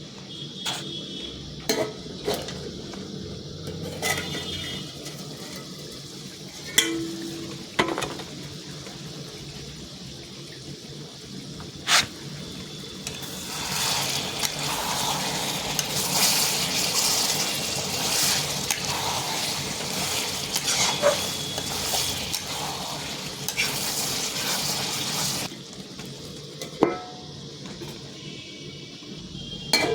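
Metal utensils knocking and clinking against a cooking pot, with a stretch of loud sizzling, like food frying in hot oil, from about 13 seconds in until it stops abruptly about 25 seconds in.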